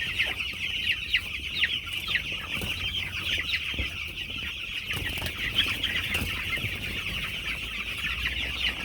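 A flock of two-week-old broiler chicks peeping, many at once, in a continuous high chorus.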